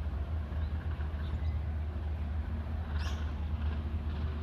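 Steady low rumble of a standing train's diesel locomotive idling, with a brief high chirp about three seconds in.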